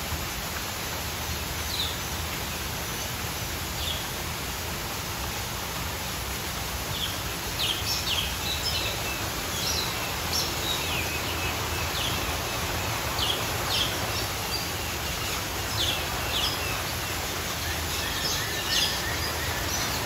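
Birds chirping: short, high chirps repeated in quick runs from about seven seconds in, over a steady background hiss.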